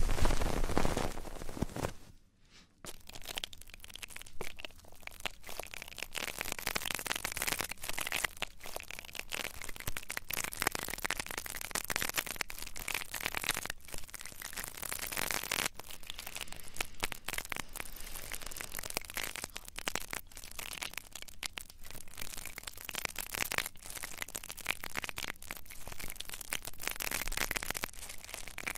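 Dense, continuous crackling and rustling of an ASMR trigger worked right at the microphone. It follows a louder, fuller stretch that drops away about two seconds in.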